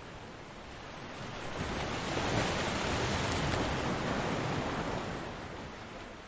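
Ocean waves breaking on a beach: a single wave's rush of surf builds about a second in, peaks in the middle, and washes back out near the end.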